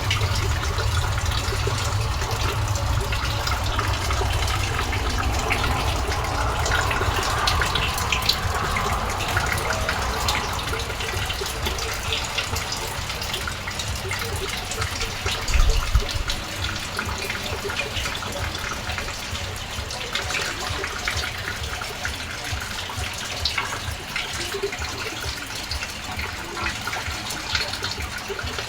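Steady rain falling, with water running and splashing, heard as a dense even hiss speckled with drop ticks. A low rumble on the microphone eases after the first half, and a single brief thump comes about sixteen seconds in.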